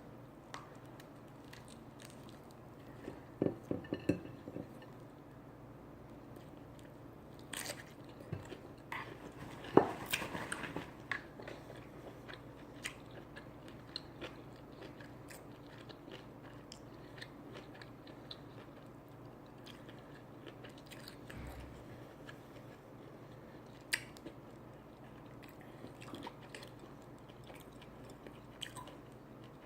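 A person eating, chewing and biting food close to the microphone, with scattered crunches and small wet clicks; the busiest bites come about three to four seconds in and, loudest, around ten seconds in.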